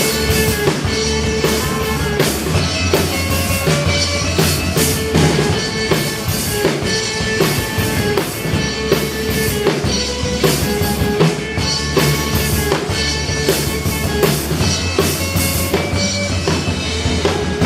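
Live rock band playing an instrumental passage: a steady drum-kit beat with bass drum under sustained bass and guitar notes.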